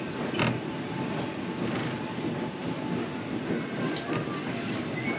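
Diesel-hauled passenger train running, heard from an open-air coach: a steady rumble of wheels on the track with a few sharp clicks.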